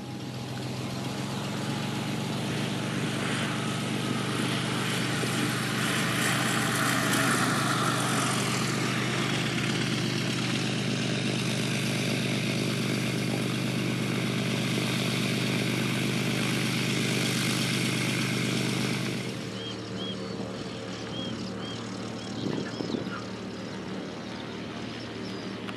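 Rotax 912 four-cylinder engine and propeller of an Aquila A210 light aircraft running at power, a steady drone that builds over the first few seconds. About two-thirds of the way in it drops abruptly to a much quieter, lower steady running sound.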